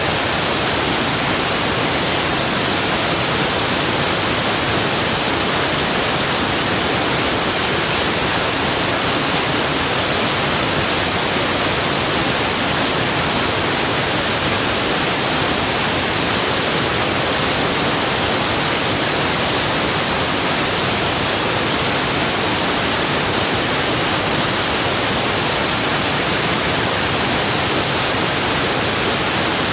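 Rushing water from a forest river or waterfall: a steady, even, hissing rush with no change or separate events.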